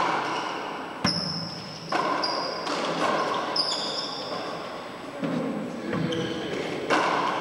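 Four-wall handball rally in an indoor court: a rubber handball struck by hand and smacking off the walls and floor in sharp cracks roughly a second apart, with sneakers squeaking on the court floor between the hits.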